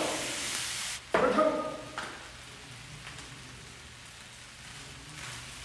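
Sausages and vegetables sizzling in a frying pan as they are stirred, a loud hiss that cuts off suddenly about a second in, leaving only a faint hiss afterwards.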